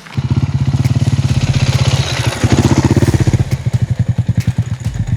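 Single-cylinder four-stroke enduro dirt bike engine running at low revs with a fast, even chug. It swells briefly a little under halfway through.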